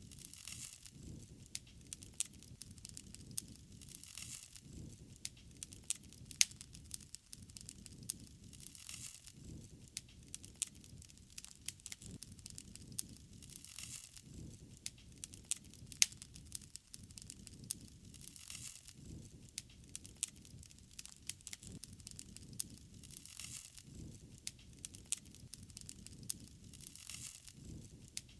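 Open wood fire crackling: frequent sharp pops and snaps, a few much louder than the rest, over a steady low rumble of burning.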